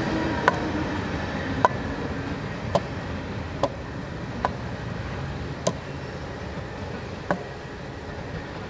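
Freight train rolling away, its rumble slowly fading, with sharp wheel clicks over rail joints coming roughly once a second.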